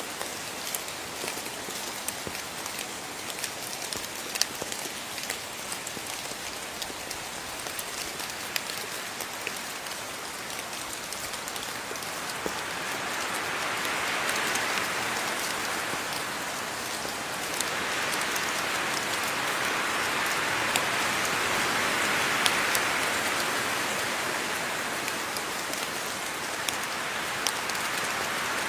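Steady rainfall, a dense hiss with many single drops ticking through it; the rain swells heavier twice in the second half before easing a little.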